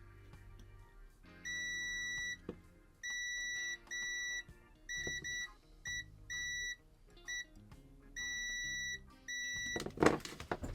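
Multimeter continuity tester beeping on and off in about ten bursts of varying length, a steady high beep each time the probes bridge a point shorted to ground. A couple of knocks near the end.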